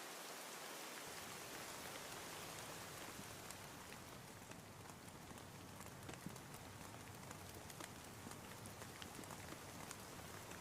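Steady rain falling, with individual drops tapping sharply from about three seconds in.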